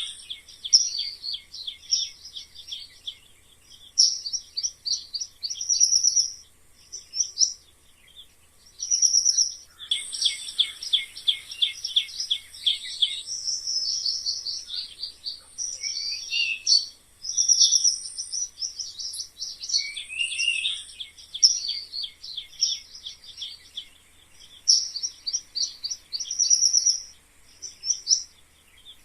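Mice squeaking: rapid trains of high-pitched squeaks in bursts of a second or two, with a few short upward-sliding squeaks and brief pauses between bursts.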